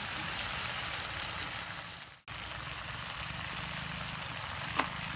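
Eel pieces in sauce sizzling and bubbling in a frying pan over a portable gas stove, a steady crackling hiss. The sound cuts out for a moment about two seconds in, then carries on, with one short knock near the end.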